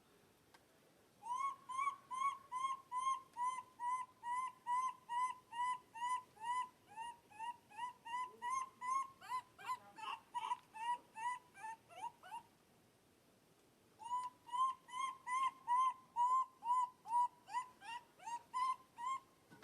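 Baby monkey calling over and over in short, even cries, about three a second. The cries turn uneven near the middle, break off for a moment, then start again.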